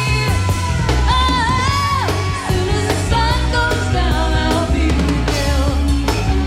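Live rock band playing, with electric bass and drum kit underneath and a voice singing a bending melody line that comes in about a second in. It is a cassette recording of an FM radio broadcast.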